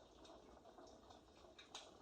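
Very faint crackling of a recorded fireplace, with scattered small clicks and one sharper crack near the end.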